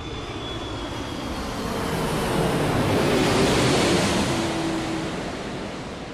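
Boeing 747 freighter's jet engines passing close on its landing approach: a broad engine noise that swells to a peak about three and a half seconds in, then fades as the pitch of its whine drops.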